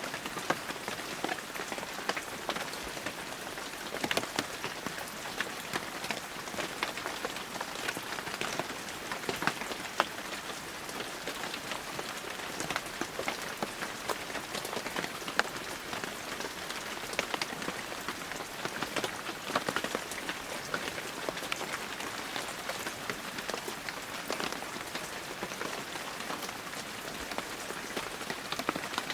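Heavy rain falling steadily, a dense hiss with many distinct drops pattering and ticking on surfaces.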